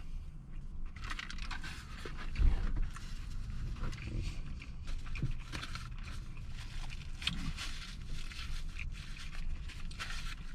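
Close chewing of a crispy fried chicken sandwich: wet mouth sounds and small irregular crunches and clicks, with one low thump about two and a half seconds in.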